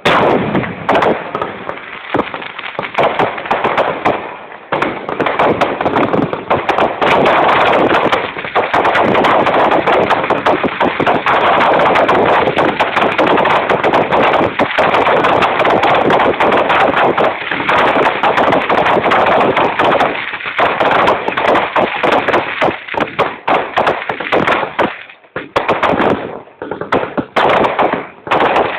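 Festival fireworks going off in a dense barrage of firecracker bangs and crackling, rapid-fire like a machine gun. They merge into an almost unbroken din for most of the time, then thin out into separate bangs near the end.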